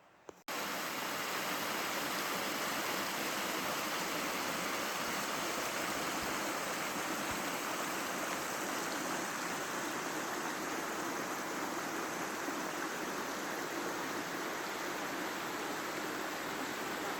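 Flowing water rushing steadily, like a river or stream running over rocks, cutting in about half a second in.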